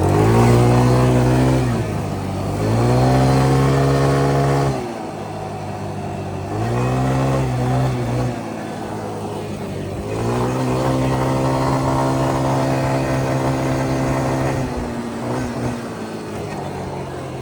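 Yamaha Grizzly 125 ATV's small four-stroke single-cylinder engine under throttle: the revs climb and hold in four separate runs, each dropping back toward idle, with the last run the longest.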